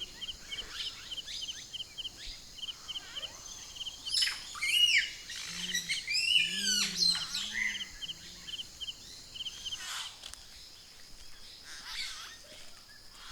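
Wild birds calling outdoors: a short high trilled note repeats steadily throughout, while louder sweeping, warbling calls come twice, about four and about six seconds in. Faint low hoots sound about six to eight seconds in.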